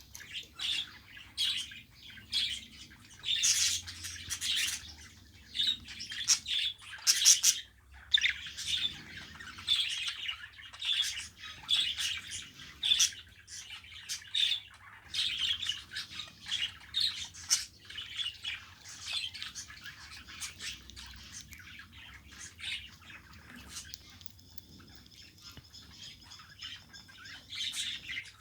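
Budgerigars chirping and chattering in quick, irregular high chirps and squawks, growing sparser near the end.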